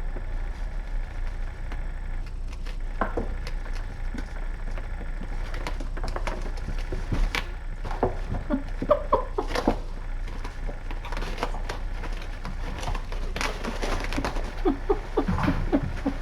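Kittens scampering and playing: a busy, irregular patter of small paws with light knocks and clatters, over a steady low hum.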